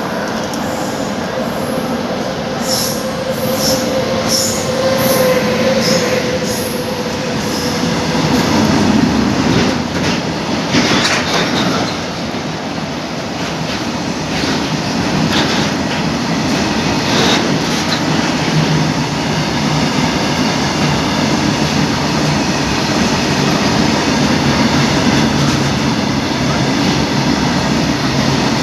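Train running along the platform track at close range: a continuous rumble of wheels on rails with scattered clicks, and a steady high tone for the first eight seconds or so.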